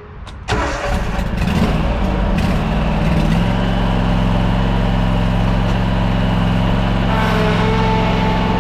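Toro Z587L zero-turn mower's engine starting about half a second in, revving up unevenly, then settling into a steady run.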